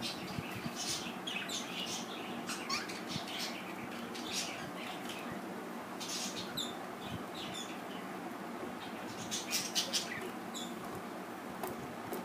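Pet budgerigars chirping and calling in short, scattered high notes, over a steady background hiss.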